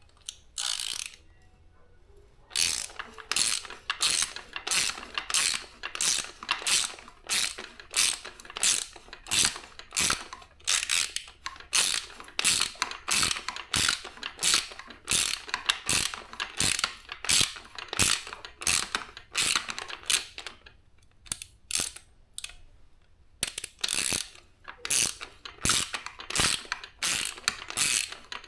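Hand ratchet wrench clicking in repeated back-strokes, about two a second, as a bolt is worked, with a short pause near the start and another about two-thirds of the way through.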